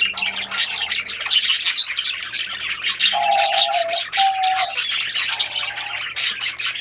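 Many small birds chirping rapidly and continuously, with a few held whistle-like notes, the clearest a little past the middle.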